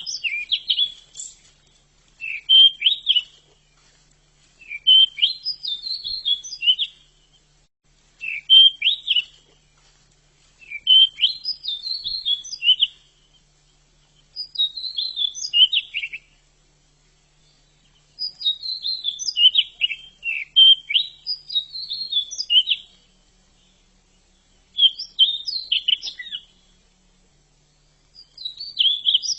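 Bushchat (decu) singing: short, quick warbling phrases a second or two long, repeated with brief pauses between, with one longer unbroken run of song past the middle.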